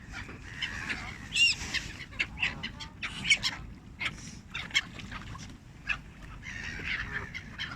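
Birds calling by the water: a flurry of short calls and chirps, with louder calls about a second and a half in and again about three seconds in, over a steady low background rumble.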